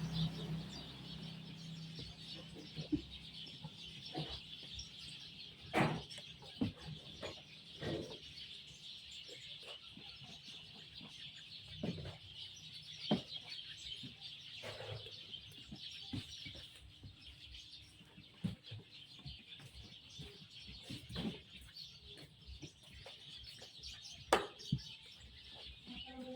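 Scattered short knocks and clicks of hand work on a washing machine, the loudest about six seconds in and near the end, over a steady background of small birds chirping and chickens clucking.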